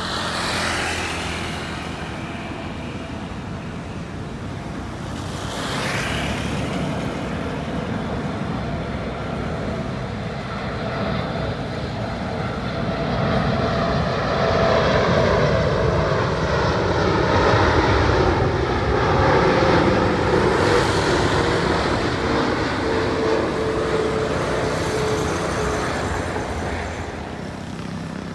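Jet engines of a Boeing 747-8F freighter on final approach. The rumble and roar grow louder to a peak about halfway through, then ease off. A whine drops in pitch as the aircraft passes.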